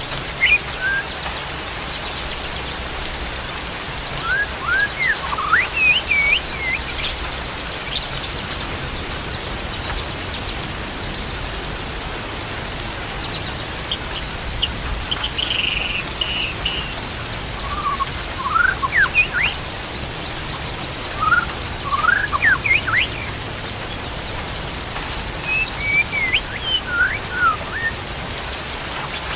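Songbirds chirping in several short bursts of quick, rising notes over a steady hiss of rain or running water.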